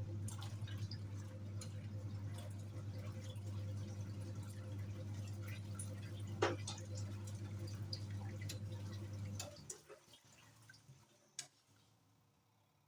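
Hisense 7.5 kg twin-tub washing machine's wash motor humming steadily as the pulsator churns the water in the wash tub, with small splashes. About nine and a half seconds in, the motor stops and the tub goes quiet as the pulsator pauses between turns.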